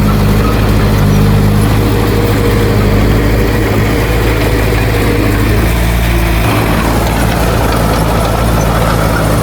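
Heavy diesel earthmoving machinery engine running steadily, with a slight change in engine note about two-thirds of the way through.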